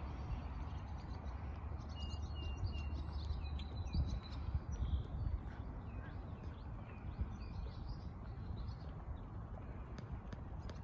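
Several small birds chirping, the calls coming mostly from about two seconds in, over a low steady rumble.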